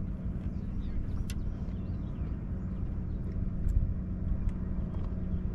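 A boat's motor running with a steady low hum, with a sharp click about a second in, a low thump near the middle, and a few faint bird chirps.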